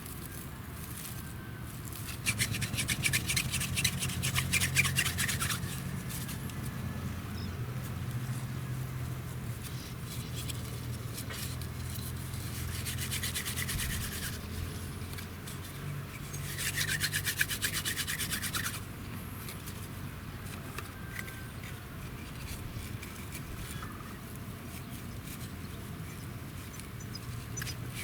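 A dry wooden branch rubbed fast back and forth against crushed plant fibres in a hole in a half-rotten stump, friction fire-lighting. It comes as a dry rasping in two harder bouts, about three seconds long near the start and about two seconds long past the middle, with lighter rubbing between them.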